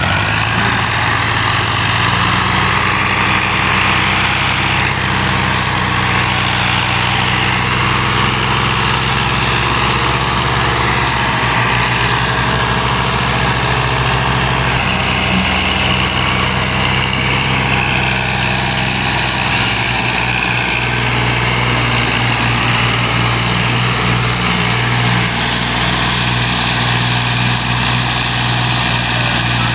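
Al-Ghazi farm tractor's diesel engine running steadily while pulling a loaded sugarcane trolley, its note shifting a little in pitch now and then.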